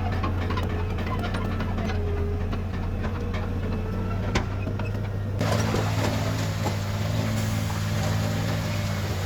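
Heavy diesel earthmoving machinery running steadily with a low engine hum and scattered light clicks. A little past halfway the sound abruptly turns brighter and hissier.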